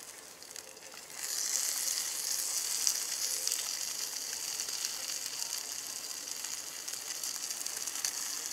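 Egg-batter-dipped ham and cheese sandwich sizzling in a hot cast-iron skillet over a wood stove's flame. The sizzle grows louder about a second in and then holds steady.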